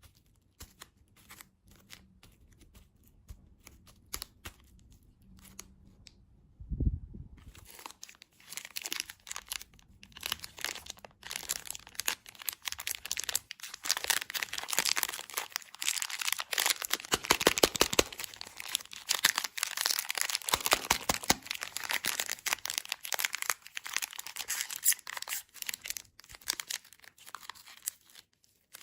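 Packaging being handled and unwrapped: a few faint clicks, a low thump about seven seconds in, then continuous crinkling and tearing of a wrapper, loudest in the middle.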